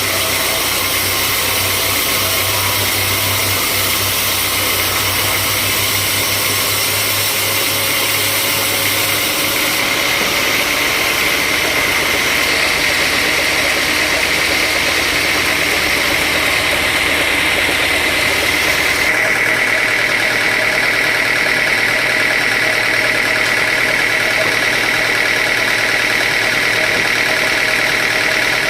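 Sawmill machinery running steadily, an engine-driven saw with a constant high whine. The sound changes abruptly twice, about ten and nineteen seconds in.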